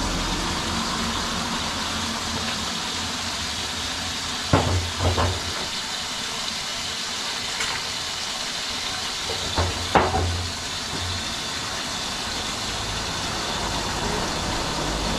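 Water from a garden hose running steadily into a barrel packed with branches, a continuous hiss, with a few knocks as the branches are shifted, about four and a half and ten seconds in.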